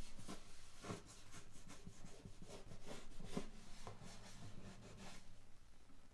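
Soft, irregular rubbing and handling noises on an acoustic guitar's wooden body, in short strokes that die down near the end.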